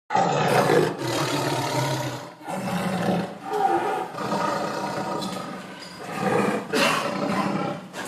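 Tiger roaring: about four long, low roars in a row, each lasting roughly two seconds.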